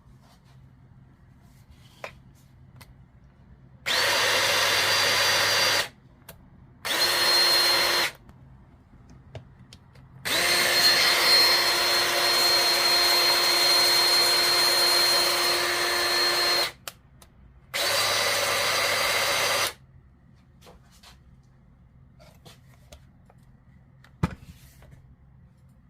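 Small power-tool electric motor run four times at a steady speed with a high whine: about two seconds, one second, a long six-second run, then two seconds. A sharp click comes near the end.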